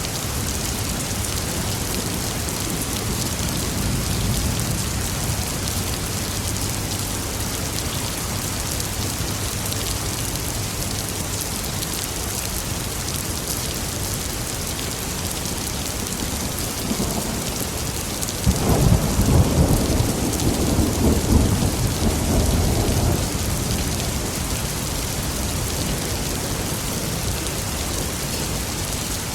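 Steady heavy rain, with a low roll of thunder a few seconds in and a louder, sharper thunderclap about two-thirds of the way through that rumbles on for several seconds.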